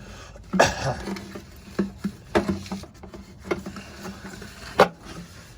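Irregular sharp knocks and clicks of hands and tools on a diesel fuel filter housing as it is worked loose counterclockwise, with low grunts of effort between them.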